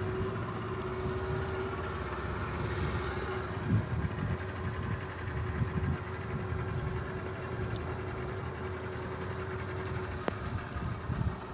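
Boat motor running steadily at low speed, a constant drone over a low, uneven rumble.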